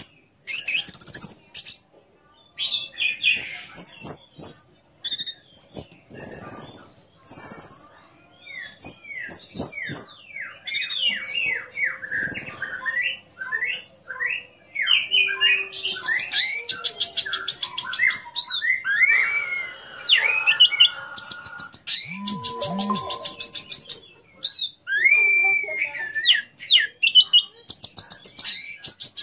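Orange-headed thrush (anis merah) singing a loud, varied song of whistled, slurred phrases with short gaps. Fast runs of rapidly repeated high notes come several times.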